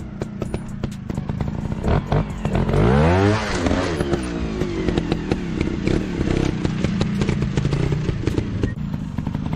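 Dirt bike engines running. About three seconds in, one bike's engine swells loud, its pitch climbing and then falling away. Sharp clicks and clatter run throughout.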